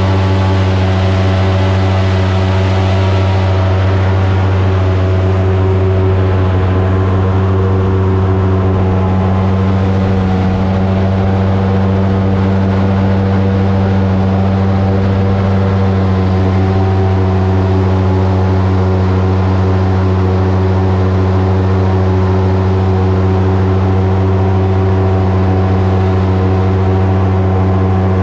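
Airboat's engine and propeller running steadily under way, a loud, unchanging low drone.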